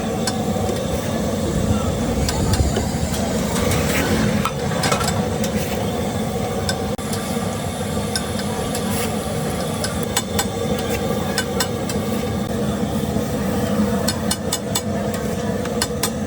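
Egg patties frying on a flat griddle, with scattered sharp clicks and scrapes of a metal spatula on the hot plate, over a steady low hum of road traffic.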